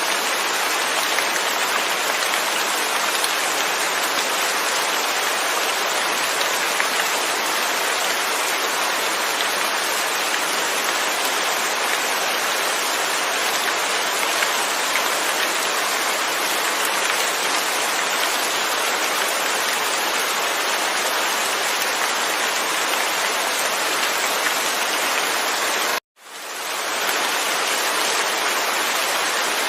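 Steady heavy rain with no thunder, an even hiss of falling drops. Near the end it cuts out suddenly and fades back in over about a second.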